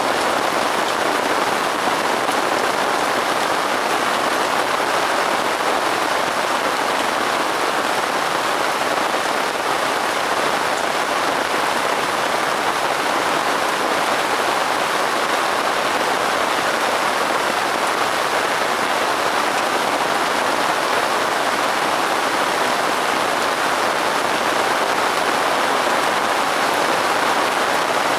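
Steady rain falling on a surface, an even hiss of many drops with no break or change.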